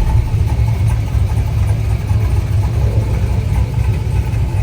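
Loud, steady low rumble of a performance car engine idling with a choppy idle.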